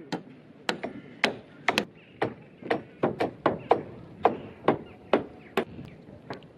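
Repeated sharp blows of a hand tool striking timber, about two to three a second at an uneven pace.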